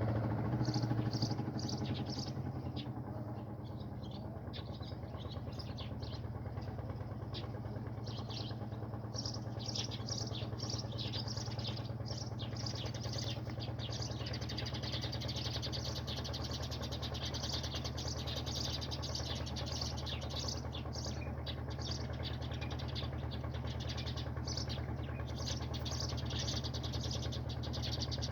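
Many small birds chirping in quick, high, repeated notes, over a steady low mechanical hum.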